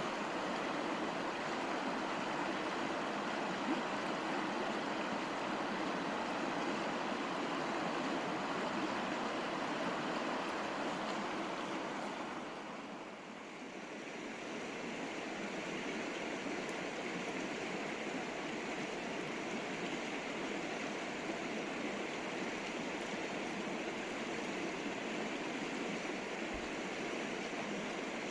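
River water flowing and rushing steadily, with a short dip in loudness about halfway through.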